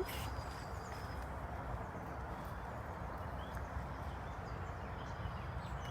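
Steady, even rushing noise of the outdoor surroundings, with no distinct events.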